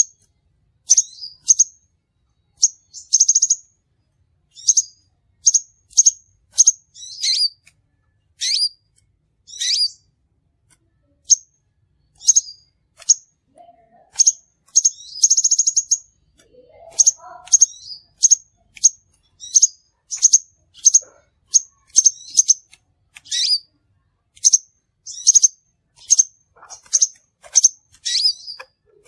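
Crimson sunbird calling: short, sharp, high chirps repeated about once or twice a second, a few drawn out into brief buzzy trills.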